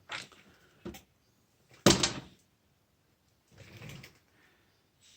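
Sharp knocks and clanks of hand tools on the mower's engine mount bolts: three in the first two seconds, the third loudest, then a softer scraping rustle near the end.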